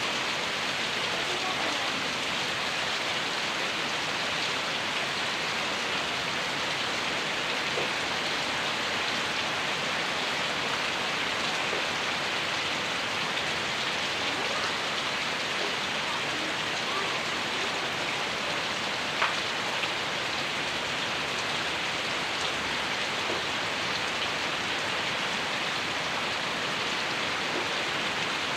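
Heavy downpour: steady rain falling and pattering on surfaces, with a couple of sharper drips or taps about two-thirds of the way through.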